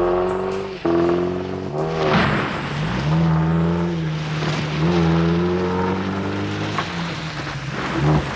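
Car engine revving hard as the car is driven off flat out, its pitch climbing, dropping and climbing again several times through the gears.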